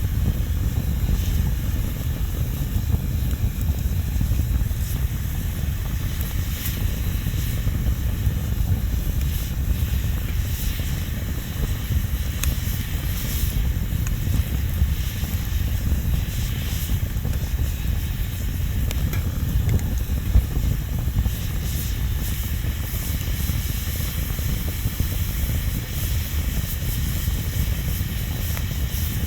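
Wood bonfire burning: a steady low rumble with scattered crackles and pops throughout, one sharper pop about twenty seconds in.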